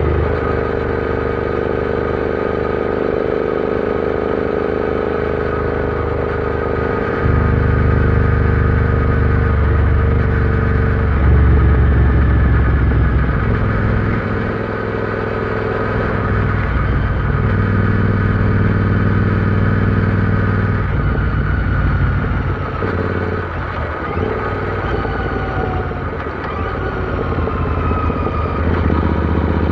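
Royal Enfield Interceptor 650's parallel-twin engine running under way on the road. It steps up in loudness about a quarter of the way in and again soon after, then eases off for a while.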